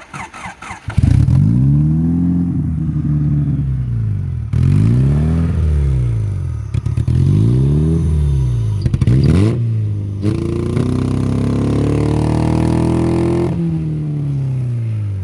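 A Honda Civic four-cylinder engine is cranked, catches about a second in, and is revved up and down repeatedly. Near the end it is held at high revs for a few seconds, then drops back toward idle. It is a misfiring derby-car engine that needs sprayed gas to start.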